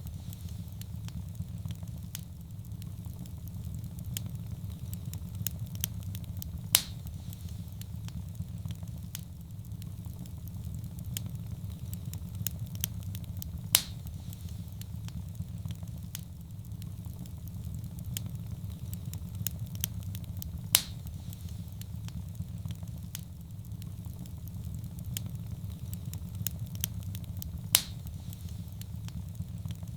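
Wood fire burning in a fireplace: a steady low rumble of flame with constant small crackles, and a louder sharp pop about every seven seconds.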